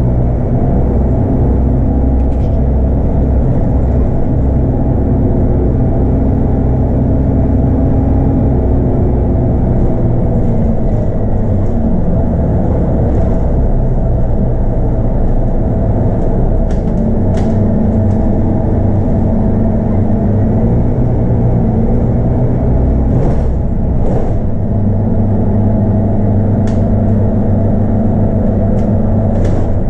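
Scania DC9 five-cylinder diesel of a city bus running steadily under way. The engine note drops and climbs again a couple of times, with a few short rattles over the top.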